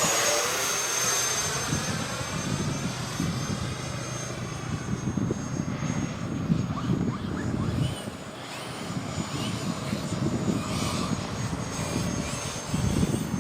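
Electric ducted fans of an FMS 64mm Rafale RC jet giving a steady high whine as the model flies past, with a sweeping shift in tone at the start as it passes close. Gusty wind rumbles on the microphone throughout.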